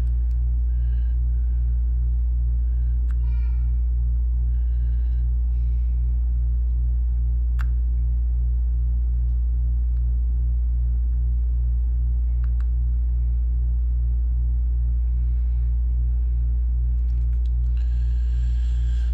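Steady low electrical hum with its overtones, unchanging throughout, with a few faint clicks.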